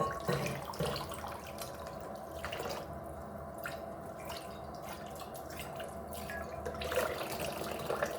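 Water dripping and trickling, with scattered small clicks and a knock about a second in.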